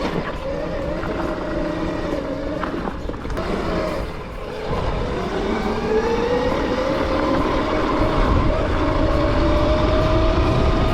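Gowow Ori electric dirt bike's motor whining, with a low rumble underneath. The whine holds steady at first, dips about four seconds in, then climbs steadily in pitch and gets louder as the bike speeds up.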